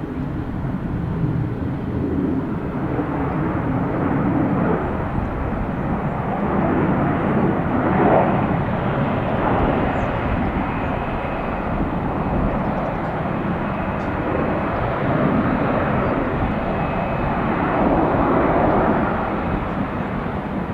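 Airbus A320 jet airliner's engines, a steady rush of jet noise that swells and eases a few times.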